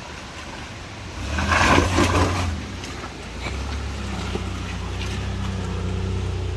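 Off-road vehicle's engine running while crawling up a rough trail, with a louder rushing surge about a second and a half in, then a steady drone.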